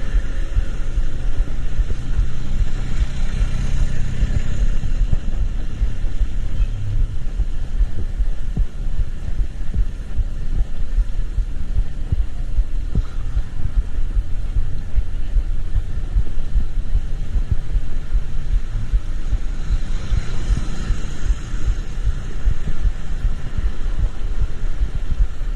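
Vehicle riding through traffic: a steady low rumble with wind buffeting on the microphone. A hiss swells twice, a few seconds in and again near the end, like vehicles passing on a wet road.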